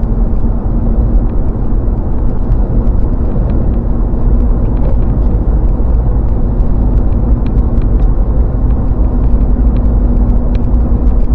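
Steady road and engine rumble of a pickup truck cruising at highway speed, heard from inside the cab, with a constant low hum running under it.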